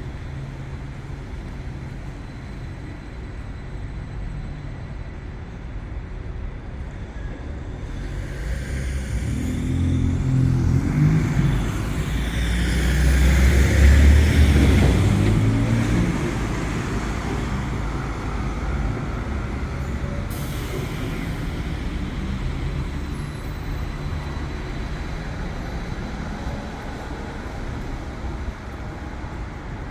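Street traffic with a large vehicle, such as a bus or truck, passing close: its engine rumble swells to a peak about halfway through and fades, over steady traffic noise. A brief hiss comes about two-thirds of the way in.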